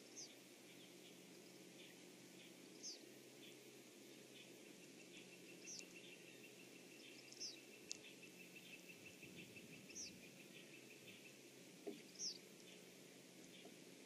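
Faint, high, short bird calls, each a quick downward note, repeated every two to three seconds, with a fast ticking trill for several seconds in the middle, over a steady low hum.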